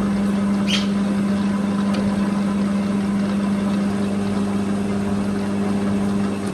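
Metal lathe running with an Austin 7 cylinder head spinning on its faceplate, taking a facing pass to flatten the head's surface: a steady hum with a strong low tone that drops away abruptly near the end.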